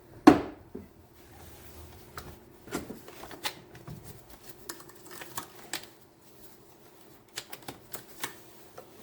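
Irregular clicks, taps and knocks of plastic car air box parts being handled and fitted into place, with one sharp knock about a third of a second in.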